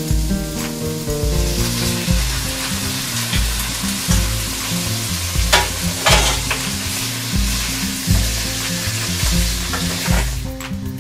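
Raw chicken livers sizzling as they hit a hot frying pan of sautéed shallots, onion and garlic, stirred and scraped with a wooden spoon; the sizzle swells about a second and a half in and fades near the end. Background music with a steady beat runs underneath.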